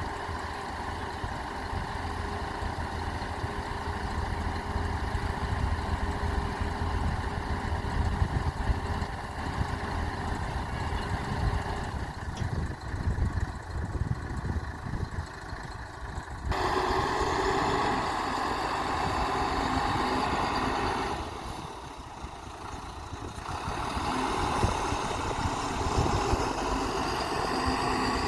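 Heavy diesel machinery engine running steadily. A little over halfway through it jumps suddenly to a louder, higher working note, drops back for a couple of seconds, then rises again.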